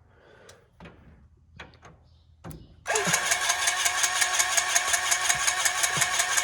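A few faint clicks, then about three seconds in the tandem grain truck's engine comes on suddenly and runs steadily with an even, rapid pulse.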